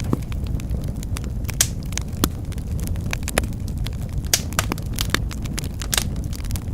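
Log fire crackling in a fireplace: irregular sharp pops and snaps, several a second, over a steady low rumble of burning.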